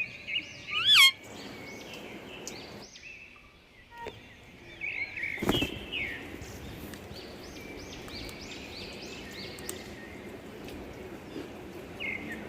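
Pet parakeets chirping in short arching calls, with one loud rising whistle about a second in. A single sharp knock comes about halfway through.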